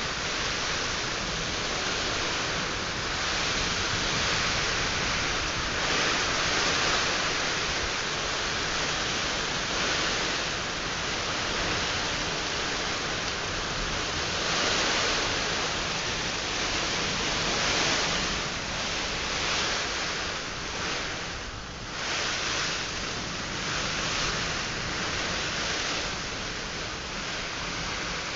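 Heavy rain and gusting wind of a nor'wester (Kalbaishakhi) storm: a steady rush of downpour that swells and eases every few seconds, dipping briefly about three quarters of the way through.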